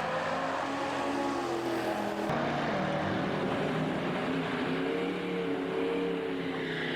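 Car engines running during a drag race: steady engine tones with slowly wavering pitch, changing abruptly about two seconds in.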